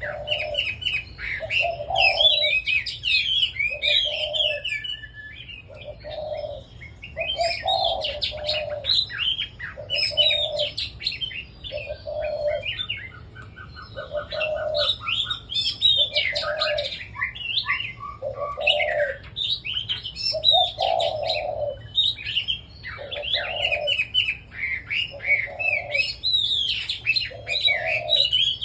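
Several caged red-whiskered bulbuls singing together, overlapping quick, warbling phrases. A separate low note repeats steadily about every two seconds underneath.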